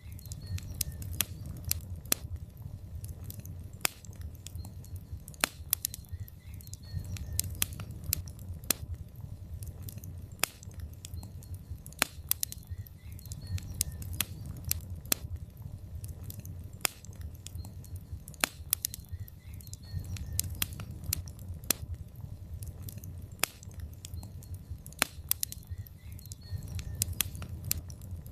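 Log fire in a fireplace crackling: irregular sharp pops and snaps over a steady low rumble of the burning.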